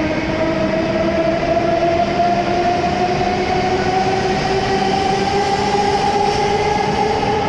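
E7 series Shinkansen train accelerating, its traction motor whine rising slowly and steadily in pitch over the running noise.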